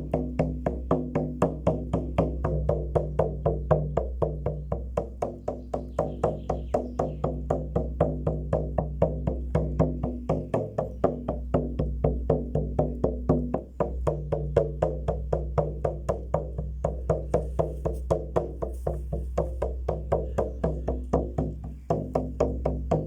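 Steady rhythmic drumming, about three to four even strikes a second, over a low sustained drone.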